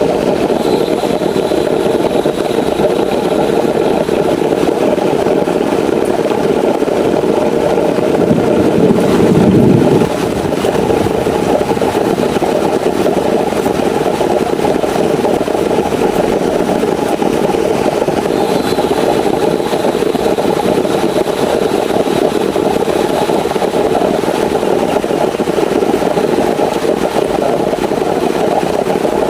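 Heavy rain falling steadily, a dense even hiss and patter. About eight seconds in it swells louder and deeper for a couple of seconds, then drops back suddenly.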